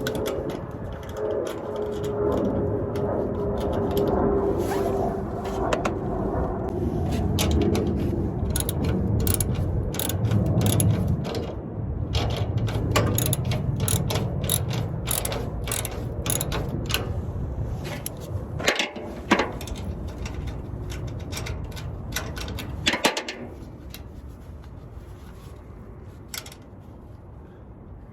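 Hand tools working on a truck's exhaust flex-pipe clamp: runs of quick metallic clicks like a ratchet wrench over a steady low rumble, with a couple of louder knocks past the middle.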